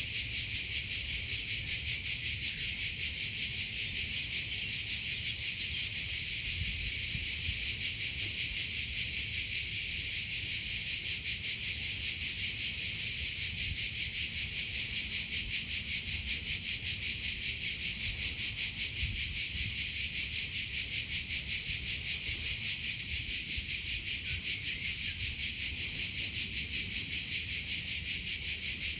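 Cricket chirping steadily: a high, rapid, evenly pulsed trill that keeps going without a break.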